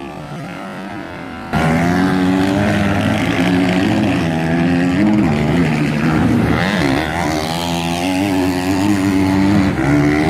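Several motocross bike engines revving, their pitch rising and falling as the riders work the throttle. The sound is quieter at first and jumps up sharply about a second and a half in.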